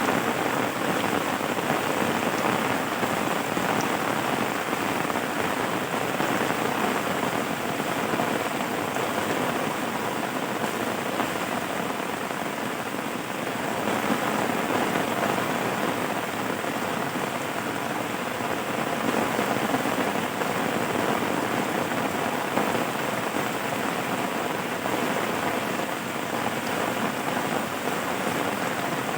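Steady rain falling on a surface: a continuous, even patter with no breaks.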